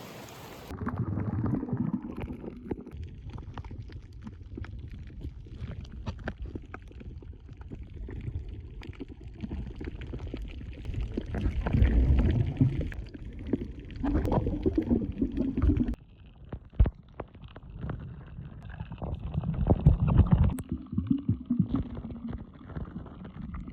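Muffled rumbling and gurgling of moving water, with many small crackles and clicks, picked up by a camera held underwater while snorkelling. It swells louder several times.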